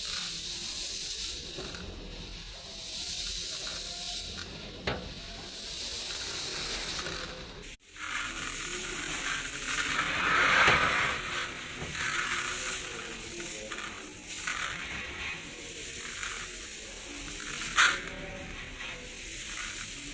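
Dry rice grains rattling and rustling as they are handled, in swells of a couple of seconds with a few sharp clicks among them. The sound drops out for an instant about eight seconds in.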